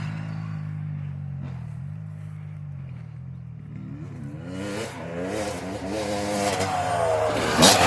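Motocross bike engine, revs dropping off and then climbing and falling again as the throttle is worked, loudest near the end.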